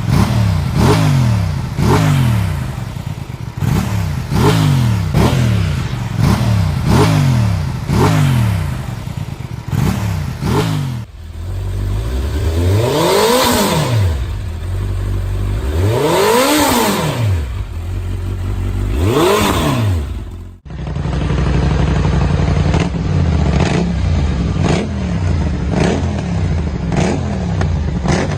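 Sport motorcycle engine revved over and over, the pitch climbing and dropping about once a second. After an abrupt cut come three slower, smoother revs up and back down, then after another cut the quick repeated revving returns.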